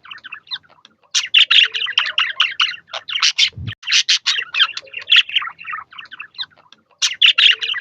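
Budgerigars chattering: fast runs of warbling chirps and squawks in bursts, with short lulls. A brief low thump sounds a little before halfway.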